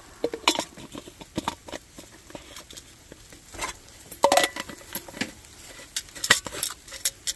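Spork and camp mess-kit dishes clattering and clicking as they are handled and packed away, in irregular clicks and rattles with busier clusters about four seconds in and again near the end.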